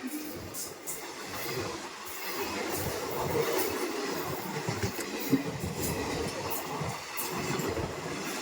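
Passenger train of standard Indian Railways coaches running on the line: a steady rumble of wheels on track with repeated sharp clicks as the wheels pass over rail joints.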